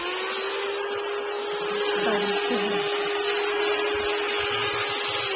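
Electric garden cutting tool running at full speed: a steady motor whine at one pitch over a high hiss, starting to wind down at the very end.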